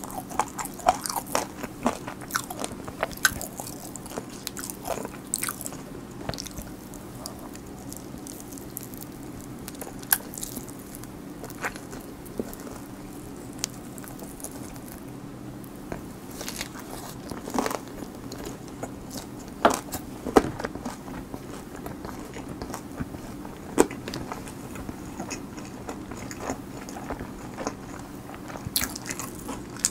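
Close-miked chewing and crunching of crispy fried chicken, with many quick crunches in the first few seconds, sparser chewing through the middle, and a few sharp, louder crunches later on.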